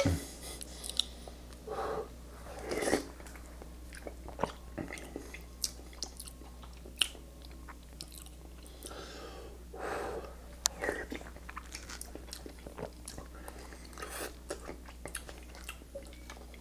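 Close-miked wet chewing and mouth smacks of a person eating soft canned Zoodles pasta in tomato sauce with melted cheese, with short clicks of a metal spoon against a glass bowl.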